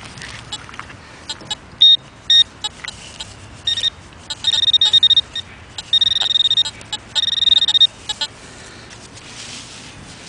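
Metal detector beeping over a buried coin target: several short high beeps and clicks, then three longer held beeps of about a second each around the middle. The tone signals metal right under the coil.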